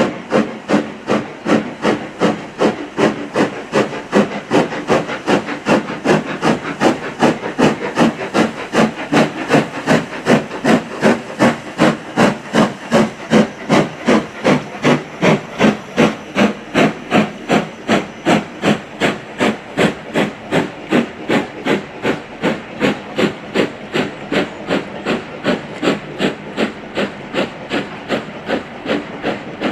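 Steam locomotive working hard, its exhaust beating out a steady rapid chuff of about two to three beats a second. The beats grow louder towards the middle and ease off near the end, as the engine passes by.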